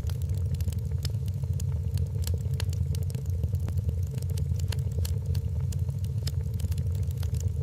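Wood fire in a fireplace crackling, with frequent sharp irregular pops and snaps over a steady low rumble of burning flames.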